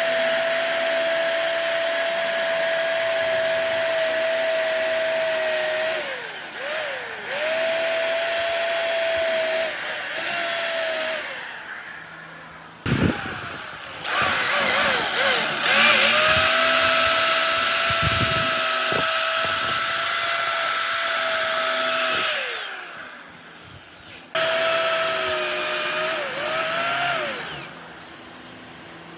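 A high-speed electric power tool runs in several bursts of a few seconds each, with a steady high whine and hiss. Its pitch sags as it bears into the work and glides down as it winds down between bursts. A sharp knock comes about halfway through.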